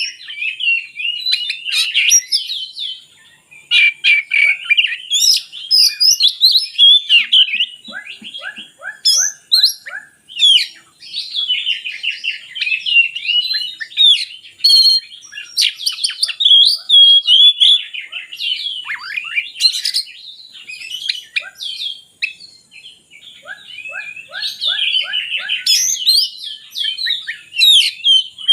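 Oriental magpie-robin (kacer) singing a loud, varied song of rapid whistles, trills and chattering phrases, with a short pause about three seconds in.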